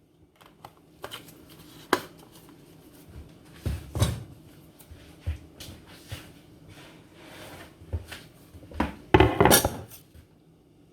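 Scattered kitchen handling sounds: a few sharp knocks and clinks of utensils and pots, with a louder, half-second rush of noise near the end.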